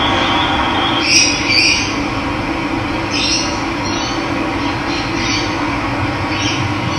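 Steady rush of running water, with a series of short bird calls over it, about seven, some in quick pairs, starting about a second in.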